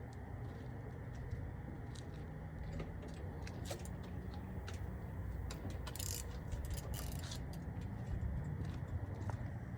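Semi-truck driving, heard from inside the cab: a steady low engine and road drone with scattered light clicks over it.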